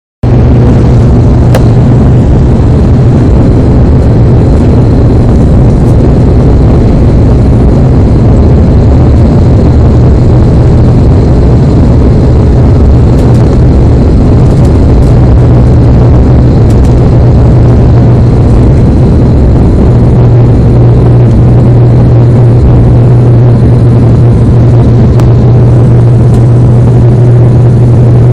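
Loud, steady drone of a light aircraft's engine heard on board, a constant low hum under a wide rushing noise.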